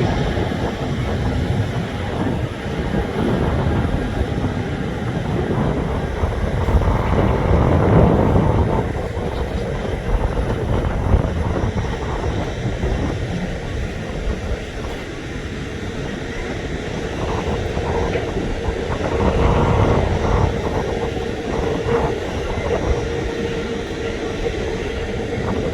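Steady low rumble of a jet airliner's engines heard from a distance, with an uneven, gusty roar in the lows.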